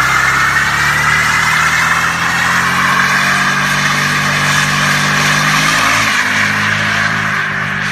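Jaguar XFR's 5.0-litre supercharged V8 held at high revs during a burnout, the rear tyres spinning and squealing. The engine note holds steady, shifting slightly about six seconds in.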